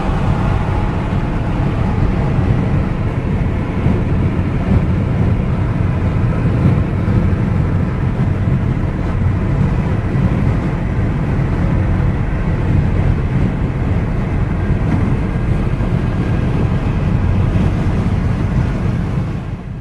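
Car driving at highway speed: a steady low rumble of tyres and engine road noise.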